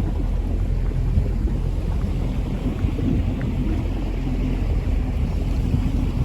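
Boat engine running steadily with a low rumble, with wind buffeting the microphone.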